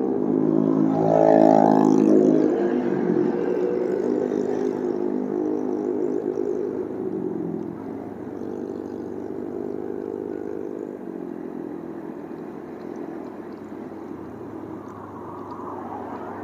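Motorcycle engine running under way, loudest in the first couple of seconds, then easing off about eight seconds in and running quieter and steadier, with some wind or road noise.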